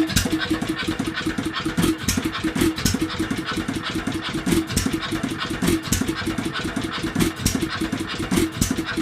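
Bentall Pioneer vertical 2½ hp hit-and-miss stationary engine running. A fast run of clicks and clatter is broken by heavier beats roughly once a second.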